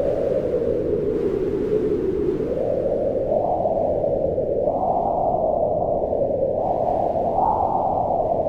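Wind howling in slow gusts: a low, hollow rushing that swells and rises in pitch about five seconds in and again near the end, then sinks back.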